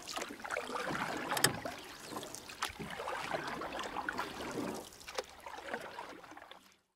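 Riverside ambience: a low, jumbled background noise with a few sharp clicks about one and a half and two and a half seconds in, fading away near the end.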